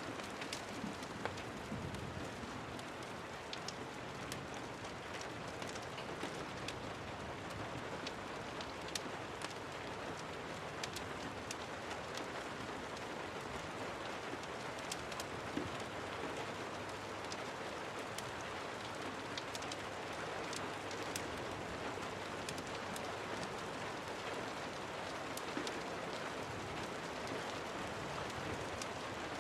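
Steady rain falling, with many sharp ticks scattered throughout.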